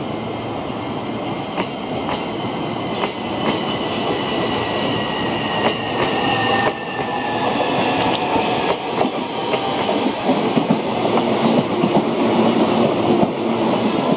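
Limited express electric train passing through a station, its wheels clacking over rail joints. A faint high tone drifts slightly downward in the first half, and the running noise grows louder toward the end.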